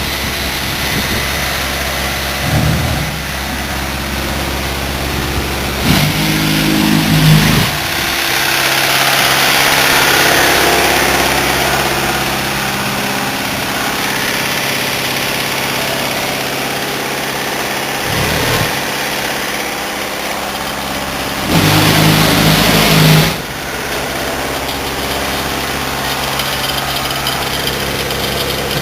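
Truck engine running steadily, with two short louder spells of the engine, one about six seconds in and one about twenty-two seconds in.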